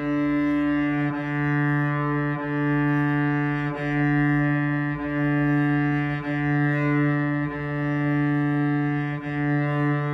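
Cello's open D string bowed gently in long, even strokes: one steady note held throughout, with a brief dip at each bow change about every second and a quarter.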